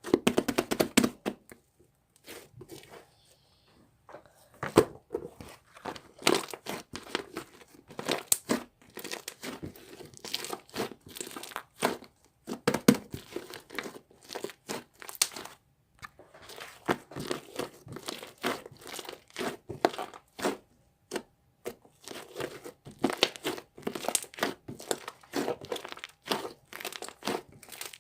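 Irregular crinkling and crackling, something crumply being handled and squeezed close up, in quick uneven bursts with a few short pauses.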